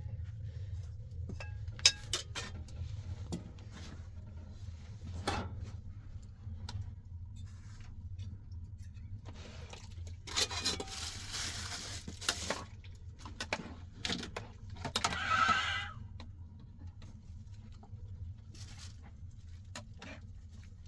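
Kitchen handling sounds: scattered knocks and clinks of pots and utensils over a steady low hum. A longer rustling, hissing stretch comes about halfway through, and a short higher-pitched sound follows a few seconds later.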